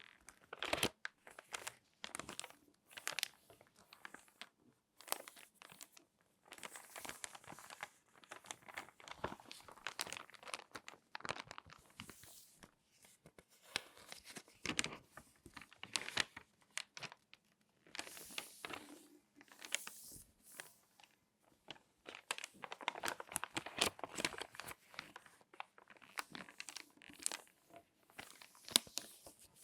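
Glossy magazine pages being folded and handled close to the microphone: irregular crinkling and sharp crackles in short bursts, with brief pauses between.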